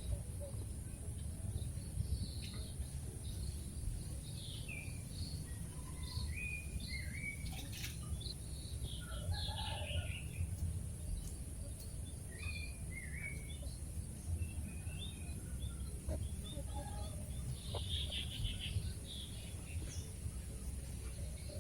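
Many short, high bird chirps scattered throughout, over a steady low rumble and a steady high hiss.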